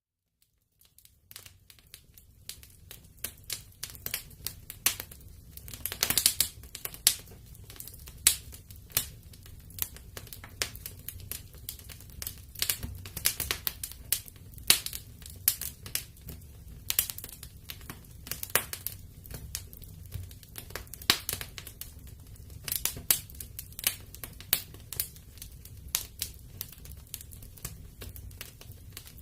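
Wood fire burning in a fireplace, crackling and popping irregularly over a low steady rumble of the flames. The sound is almost silent for about the first second, then the crackling comes in.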